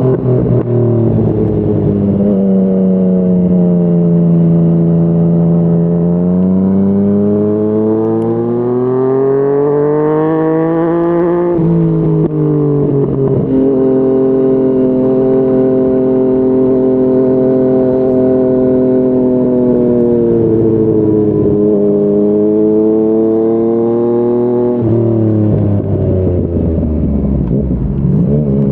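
Yamaha MT-09's three-cylinder engine through a Yoshimura R55 slip-on exhaust, under way: the engine note climbs steadily as the bike accelerates, drops suddenly at an upshift about twelve seconds in, then holds steady while cruising. It eases off and drops again later on, then climbs once more near the end.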